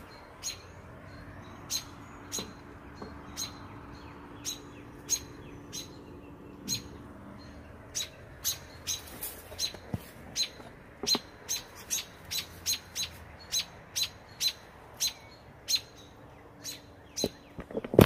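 A small bird giving short, sharp chirps over and over, about one every half second and faster in the second half. These are the alarm calls of a parent bird worried by someone close to its nest.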